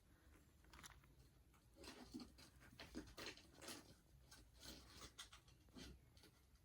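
Faint rustling and small crackles of pet rats nosing into and nibbling the leaves of potted herbs, busiest from about two to four seconds in.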